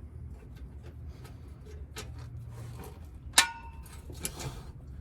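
Hand tools working on the exhaust's bolted joint: scattered small metallic clicks, then about three and a half seconds in a sharp metal clank with a short ring, over a low steady hum.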